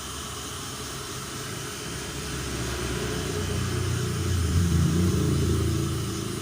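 A heat gun blowing hot air steadily to soften headlamp glue, with a low rumble that swells and fades again in the second half.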